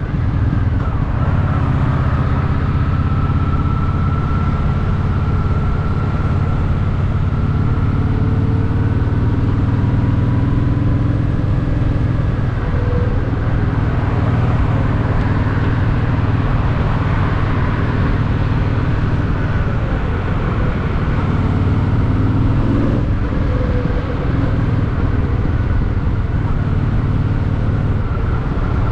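Honda Shadow VT750's V-twin engine running steadily under way, with a constant hiss of wind and road noise.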